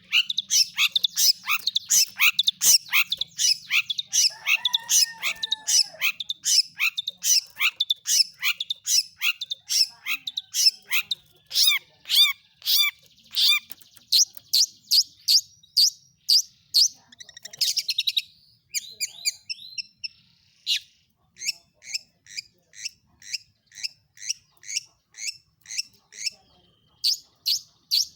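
Long-tailed shrike singing: a long, rapid series of sharp, high chirps, several a second, with a denser flurry near the middle.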